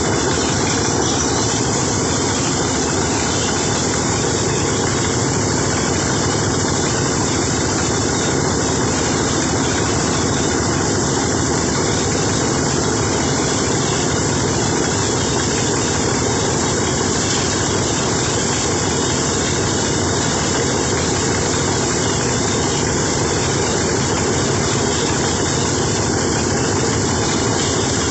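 Rice harvester's engine running steadily under load.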